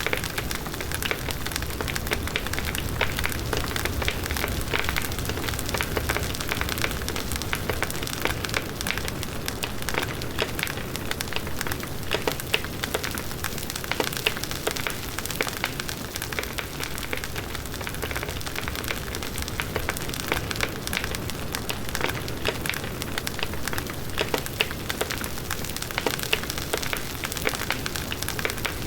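Wood bonfire burning steadily, with dense irregular crackling and popping from the burning wood over the rushing of the flames.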